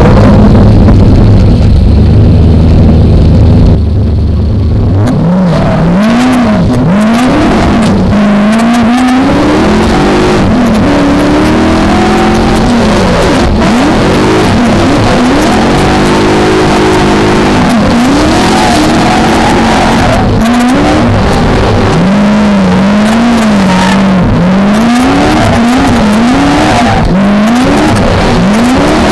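V8 engine of a BMW E30 drift car heard onboard, running loud. For the first four seconds or so it holds steady revs, then the revs swing up and down over and over as the throttle is worked through the drifts.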